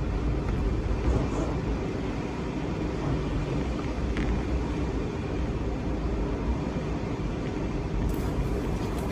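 Strong wind blowing in gusts of around 60–70 mph, with a steady low rumble and a loudness that rises and falls a little.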